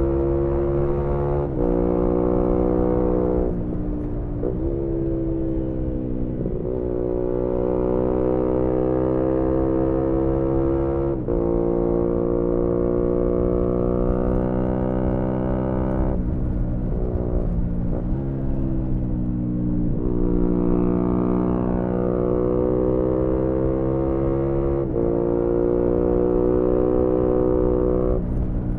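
2018 Yamaha MT-125's single-cylinder four-stroke engine through an aftermarket GPR exhaust, pulling hard through the gears while riding. The pitch climbs, then drops sharply at each shift, about every two to five seconds, with a cluster of quick drops around four to seven seconds in, as when shifting down.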